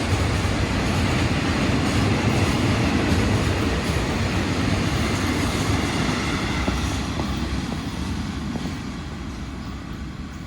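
Freight train running past, a steady low rumble of rolling wagons that fades gradually in the last few seconds as the train draws away.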